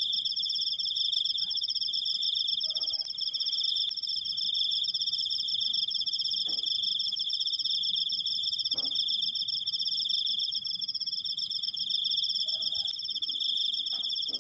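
Crickets singing a long, unbroken high trill, with two steady overlapping pitches. A few faint short knocks sound under it.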